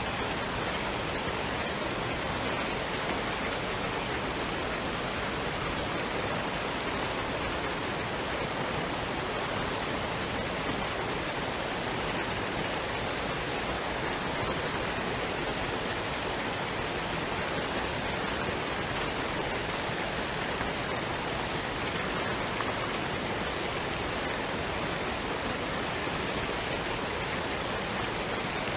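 Steady rushing of a waterfall and stream, an even unbroken roar of falling water.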